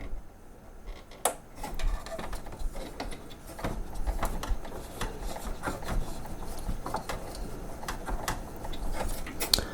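Irregular small clicks and rubbing of hands working inside a CD changer, fitting a new rubber drive belt onto its plastic pulleys.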